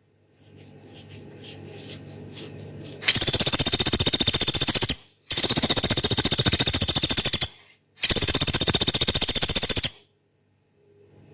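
Pelatuk beras woodpecker giving three long, rough rattling calls of about two seconds each, fast even pulses at a high pitch, a short pause between each. A faint low hum is under the start, before the first call.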